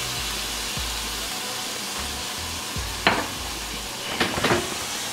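Steak and shredded vegetables frying in a hot cast-iron skillet, with Worcestershire sauce splashed over them: a steady sizzle. A sharp tick sounds about three seconds in and a few more come close together near the end.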